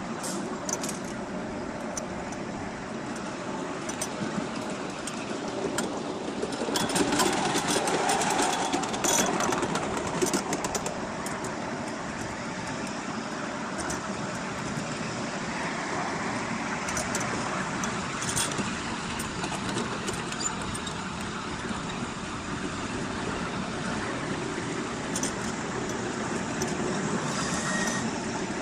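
Miniature railway train running, growing louder for a few seconds about seven seconds in, with scattered sharp clicks.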